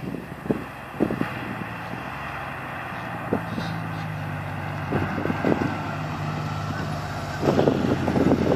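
Porsche 993 Carrera 2's air-cooled flat-six running at a steady low engine speed through Dansk 300S sports mufflers, a low, even exhaust note. Short gusts of wind buffet the microphone a few times.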